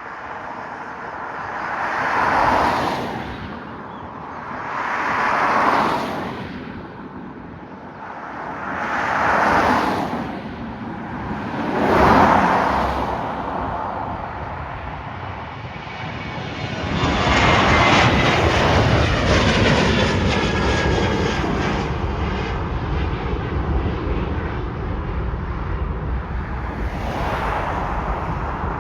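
A fixed-wing aircraft's engines roar loudly as it passes close by, starting about seventeen seconds in and holding on, with a sweeping, wavering tone. Before that, four separate shorter swells of noise rise and fade.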